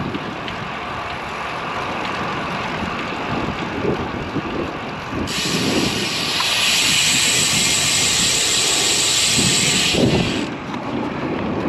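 Wind buffeting the microphone of a moving road bicycle, a rough fluttering rumble. About five seconds in, a loud steady hiss starts abruptly and cuts off about five seconds later.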